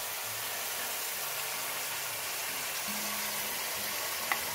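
Chicken pieces sizzling in hot peanut oil in a pot, a steady hiss under soft background music with sustained low notes. A single sharp click about four seconds in.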